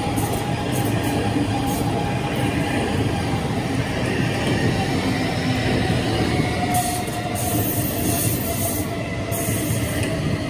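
SBB double-deck electric multiple-unit train running past on a curve: a steady rumble of wheels on rails and traction equipment, with a faint high squeal from the wheels.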